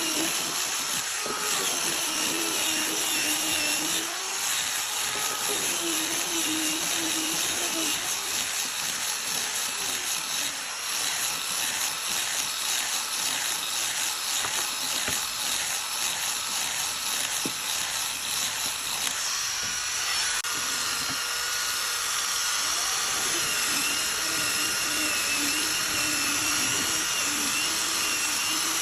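High-speed electric power tool running continuously, its motor whine wavering and dipping in pitch as it bears on the wood.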